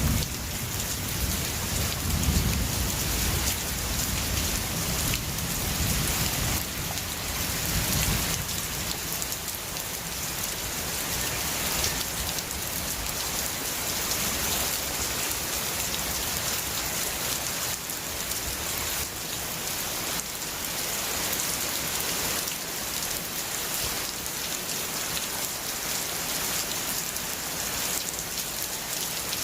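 Steady rain falling on a surface, an even hiss throughout, with a low rumble of thunder dying away over the first several seconds.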